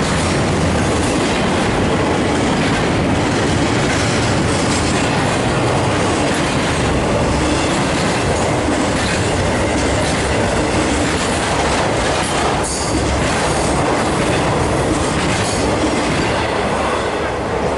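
A train's cars rolling past close by: a loud, steady rumble of steel wheels on the rails, with occasional clacks over the rail joints.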